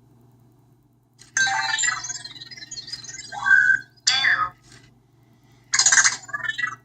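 Anki Vector robot's electronic chirps and synthetic voice answering a spoken question, in three short bursts of beeping tones starting about a second and a half in.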